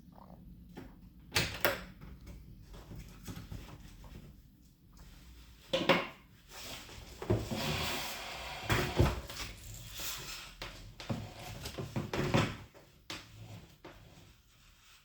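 Handling noises from unpacking a box: a series of knocks and clatters, with a stretch of rustling in the middle.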